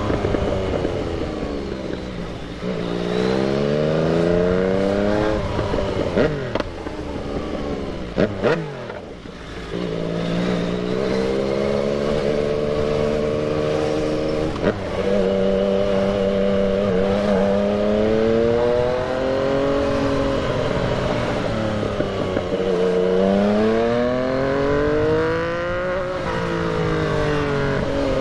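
Yamaha MT-09 three-cylinder motorcycle engine under way, with the revs repeatedly climbing through the gears and falling back. The throttle closes briefly about eight seconds in, the engine then holds steady revs for several seconds, and it climbs again near the end.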